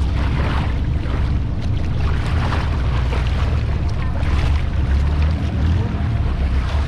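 Long-tail boat's engine running steadily under way, a loud, deep drone, with water splashing and rushing against the hull in repeated surges about once a second.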